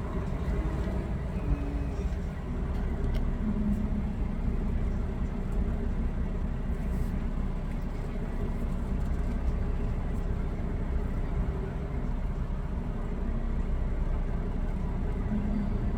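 Semi truck's diesel engine running steadily at low speed as the rig is manoeuvred into a parking spot, a constant low rumble.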